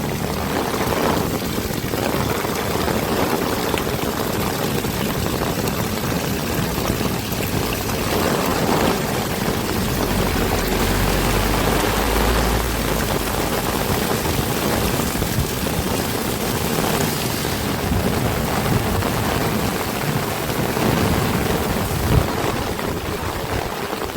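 Heavy rain pouring steadily. A low rumble swells about ten to thirteen seconds in, and there is a short sharp knock near the end.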